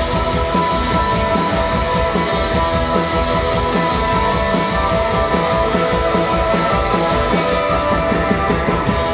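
Rock band playing live: electric guitars with held chords over a steady drum beat with cymbal hits about three times a second.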